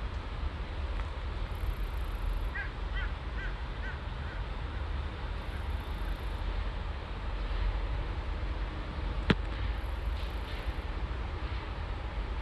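Steady low outdoor rumble with a bird calling a quick run of five or six short notes a few seconds in, and a single sharp click a little past the middle.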